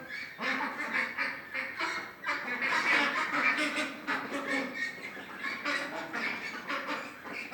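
A group of domestic ducks quacking and chattering in a continuous, irregular stream as they feed.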